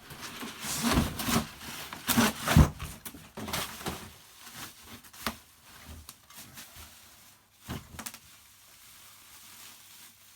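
Cardboard box of new shock absorbers being opened and its packaging handled: irregular rustling and scraping with a few knocks, loudest about one and two and a half seconds in, then quieter.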